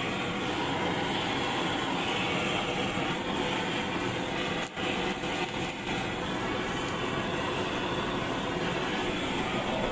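A steady rushing noise with no clear tone, broken by a short dropout about five seconds in.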